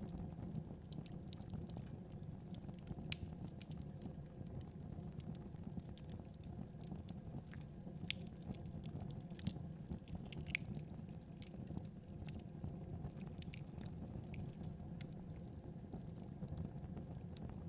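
Wood fire burning: a steady low rumble with irregular sharp crackles and pops from the burning wood, a few louder pops around the middle.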